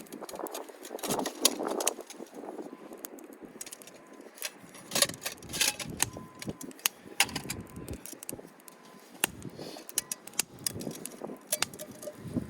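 Irregular sharp clicks and clattering over gusty wind noise on the microphone.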